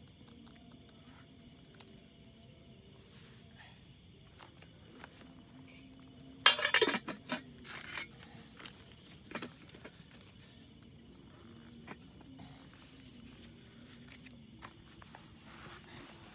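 Steady high chirring of insects, with a short burst of clattering knocks about halfway through and one more knock a few seconds later.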